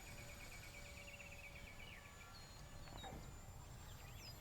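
Faint outdoor ambience: a rapid, finely pulsed trill from a small bird or insect for about the first two seconds, then a few short high chirps over a low background rumble.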